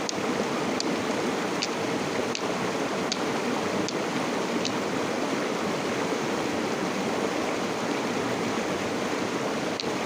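River water flowing in a steady rush. A short high chirp repeats about six times, roughly every 0.8 s, in the first half.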